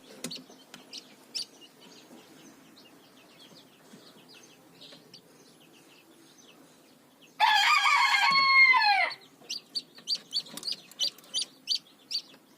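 A rooster crows once about halfway through, a loud call that drops in pitch at the end. Around it are high, thin peeps of chicks, faint at first and then quickly repeated, about three a second, in the last few seconds.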